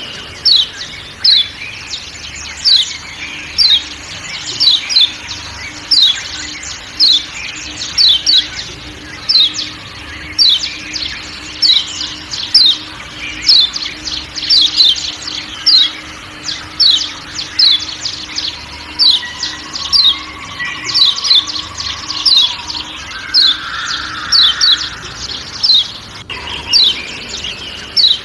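Kecial kuning, the Lombok white-eye, giving sharp 'ciak ciak' calls: short, high, falling notes repeated about once or twice a second, over faint forest background sound.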